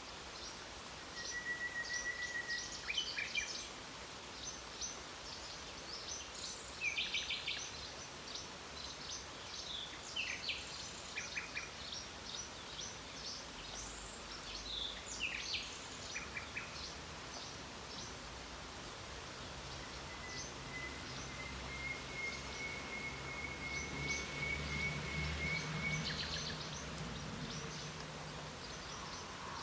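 Several songbirds singing and chirping over a steady hiss of light rain, with a long held whistle near the start and another lasting several seconds in the second half. A faint low drone joins in the second half.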